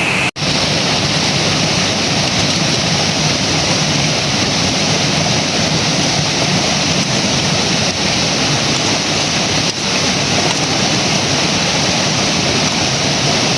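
River water rushing steadily. It cuts out for an instant about a third of a second in and comes back brighter.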